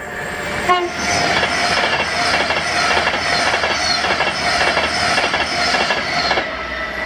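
A Class 390 Pendolino electric train passes at speed: a sudden loud rush of wheels on rail and air starts about a second in, with a repeating clatter as the carriages go by, then drops away near the end.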